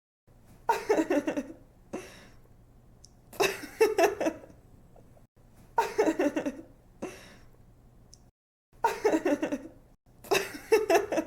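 A young woman laughing in five short fits, each a quick run of 'ha' pulses with brief pauses between them.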